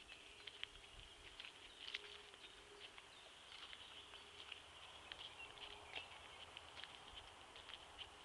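Faint woodland ambience with birds chirping: many short, high chirps scattered irregularly over a soft steady hiss.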